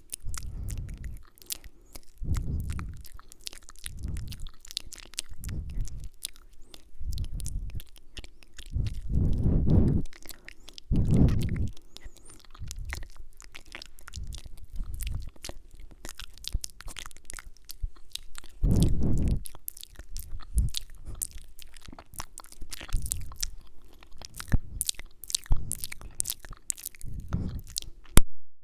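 Close-microphone ASMR mouth sounds: a dense, irregular run of wet lip smacks, kisses and tongue clicks from inaudible whispering, with a few soft low puffs or rumbles against the microphone.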